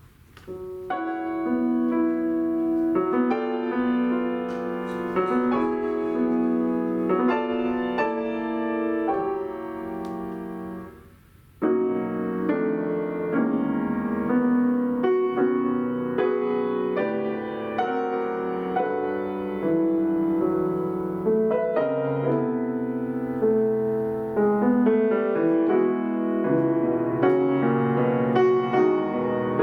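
Solo piano playing sustained chords, starting about a second in, with a short break a little before the middle before the playing resumes.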